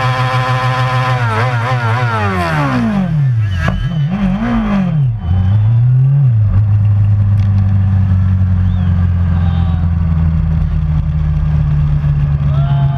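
Racing motorcycle engine at high revs, then slowing through several quick downshifts, each with a brief rise in pitch, and the note falls away. From about halfway through, a loud, steady, low engine drone.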